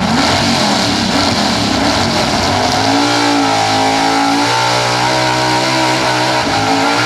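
Big-block pulling truck engine held at high revs under full load while pulling the sled, a loud, steady engine note whose pitch wavers up and down, with a brief dip shortly before the end.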